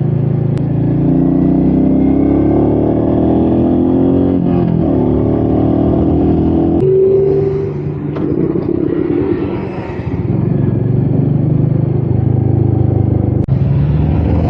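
Royal Enfield Meteor 350's single-cylinder engine under way, rising in pitch as it accelerates and dropping at gear changes about four and seven seconds in. It eases off briefly around eight to ten seconds in, then runs steadily again, with wind noise on the mic.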